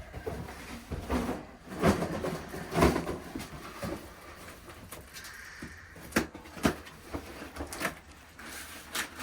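Boxes and items being handled and rummaged through: irregular knocks, clatters and scraping, with several sharper knocks near the middle and end.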